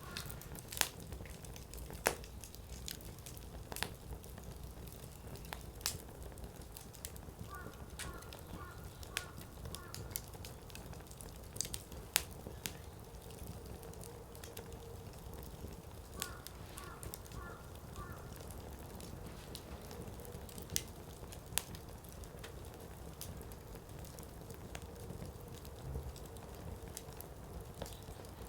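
Wood campfire burning: firewood crackling with sharp, irregular pops over a steady low rumble of the flames. Faint rapid chirping comes in twice, around eight and sixteen seconds in.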